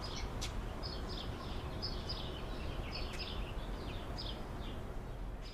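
A small bird chirping in short, high notes repeated every half second or so, over steady low outdoor background noise.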